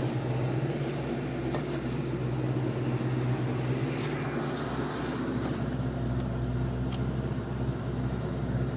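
Ford Mustang 5.0 V8 idling steadily, its front accessory drive running. The owner hears a whine that he takes to come from the smog pump and a squeak that he suspects is the belt tensioner pulley.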